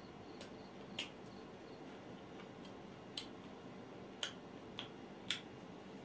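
A person chewing and smacking their lips while eating by hand: six or so short, sharp, wet mouth clicks spread through, the loudest about four and five seconds in, over a low steady hum.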